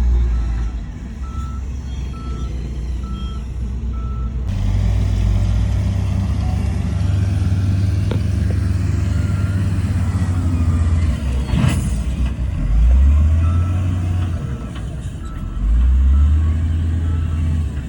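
Heavy diesel earthmoving machinery running steadily, with a vehicle's reversing alarm beeping at an even pace for the first few seconds and again near the end. A single sharp bang cuts through about twelve seconds in.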